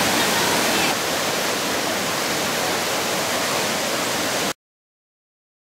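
Steady rushing of a waterfall pouring into its plunge pool, cutting off abruptly about four and a half seconds in.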